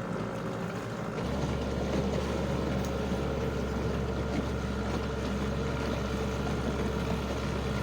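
Small boat's motor running steadily under way, a low rumble with a steady hum; the low rumble grows stronger about a second in.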